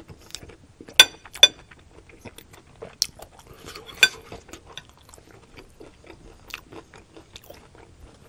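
Close-up mouth sounds of chewing stir-fried vegetables, with a metal spoon clinking against a ceramic plate: two sharp ringing clinks about a second in, then two more around three and four seconds in.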